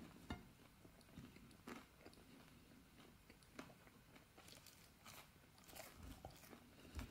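Faint chewing of battered skin-on potato fries, with a few short, crisp crunches and clicks spread through.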